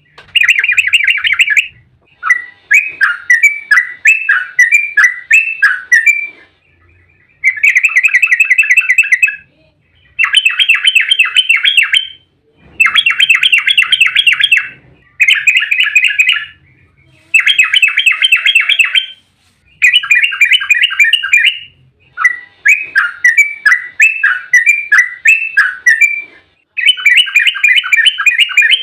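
Yellow-vented bulbul (trucuk) singing in loud, rapid chattering phrases, about a dozen bursts of a second or two each with short pauses between. Some phrases are quick runs of the same note, others falling notes. This is the fast 'ropel' song used as a lure to make other trucuk answer.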